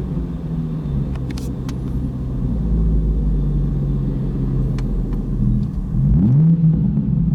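2020 Toyota Supra's stock B58 turbocharged inline-six running through a Borla ATAK cat-back exhaust: a steady low exhaust rumble, with a quick rise in engine pitch about six seconds in that then settles.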